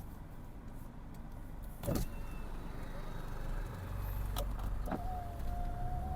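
Car running slowly, a low rumble that grows heavier about four seconds in, with a few sharp knocks and a thin steady tone starting near the end.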